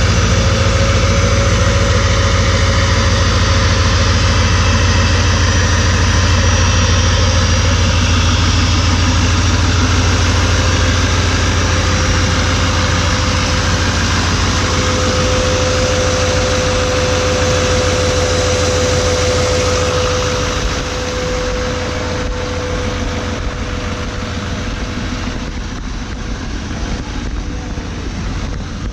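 2019 Chevy Silverado 2500HD's 6.6-litre L5P Duramax V8 diesel running steadily with a deep grumble just after a very cold start, with a steady whine over it. The owner says the clutch fan and belts are not supposed to sound like this. It gets a little quieter about 20 seconds in.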